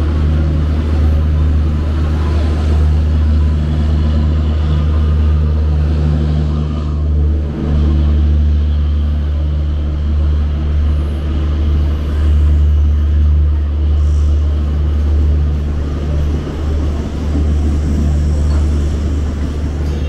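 An express train hauled by a WAP-7 electric locomotive passing on the rails, its long rake of coaches giving a loud, steady low rumble.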